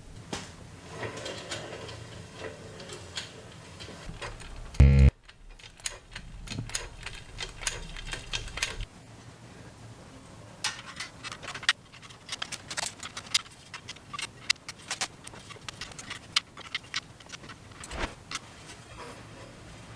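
Irregular light clicks and ticks of hand work on small parts, with one short, loud thump about five seconds in.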